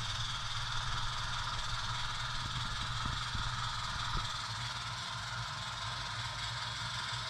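HO-scale model locomotive running as it shoves a cut of cars about one car length, with a steady low engine drone and rail noise.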